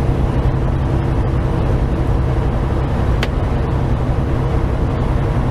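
Steady drone of a semi truck's diesel engine and road noise heard inside the cab while cruising, with one short click about three seconds in.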